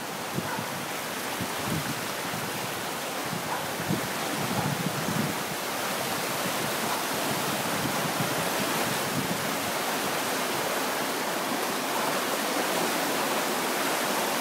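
Floodwater rushing in a steady wash of noise that grows slightly louder, with a few low bumps in the first few seconds.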